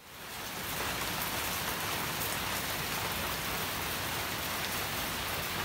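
Steady rain falling, an even dense hiss that fades in at the start.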